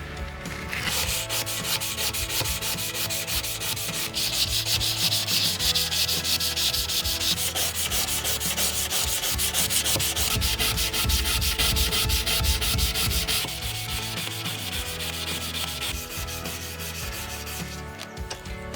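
Abrasive rubbing on the steel blade of a knife made from a truck leaf spring: rapid, even back-and-forth strokes that start about a second in and stop shortly before the end.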